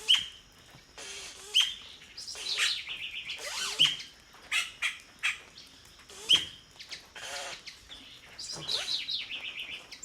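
Songbirds calling: a string of sharp, high chirps, some running into quick rattling trills, repeating every second or so.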